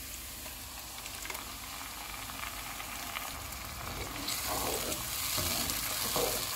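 Onions and ginger-garlic paste sizzling in hot oil in a nonstick pan as tomato puree is added and stirred in with a wooden spatula. The sizzle grows louder about four seconds in.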